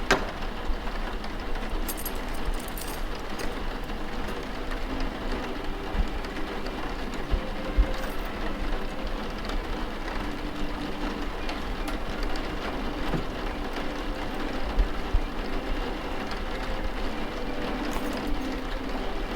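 Steady rain ambience with a low rumble underneath and a few soft thumps.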